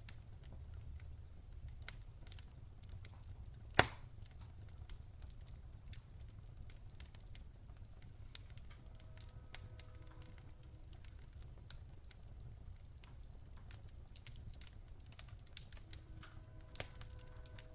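Campfire crackling: scattered small snaps and pops over a low steady rumble of the burning wood, with one sharp, much louder pop about four seconds in.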